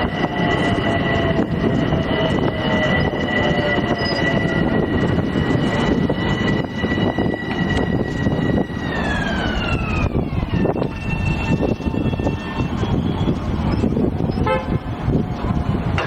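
Long Island Rail Road electric train passing at speed: a loud rolling rumble, with a set of high steady tones that slide down in pitch together about nine seconds in as the train goes by.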